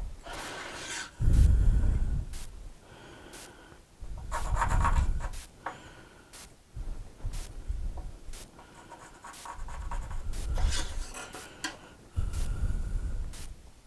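Pencil scratching on wood while lines are marked, in a series of strokes about a second long each.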